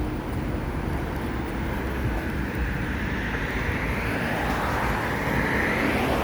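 Steady rumble of a passing motor vehicle, its hiss swelling over the last few seconds as it draws near.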